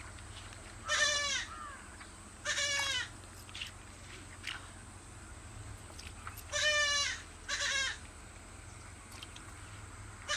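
Livestock bleating four times, each call about half a second long with a wavering pitch, over a steady low hum.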